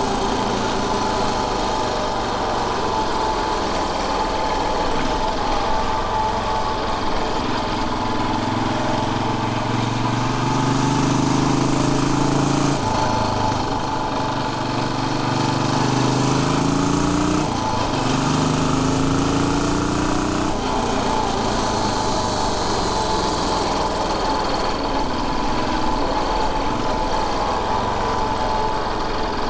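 Royal Enfield Bullet 500's air-cooled single-cylinder four-stroke engine pulling the bike along. Its pitch climbs as it accelerates, then drops at three gear changes, roughly halfway through, then twice more a few seconds apart, before it settles into a steadier run.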